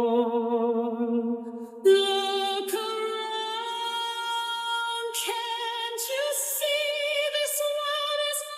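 Wordless female singing in a song: a long held note with vibrato, then a new melodic phrase beginning about two seconds in and held on sustained notes.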